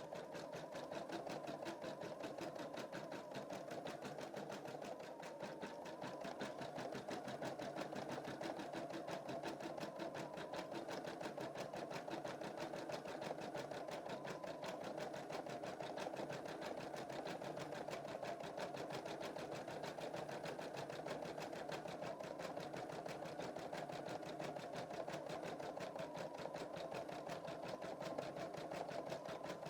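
Embroidery machine stitching steadily, its needle running in a fast, even rhythm of strokes.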